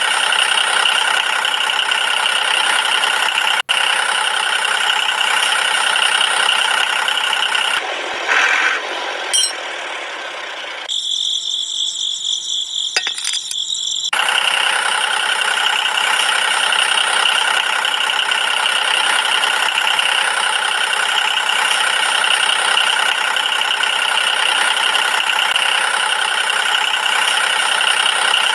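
A small high-speed power tool running steadily on wood. It changes for a few seconds around the middle, with a steadier high whine, before the same steady running resumes.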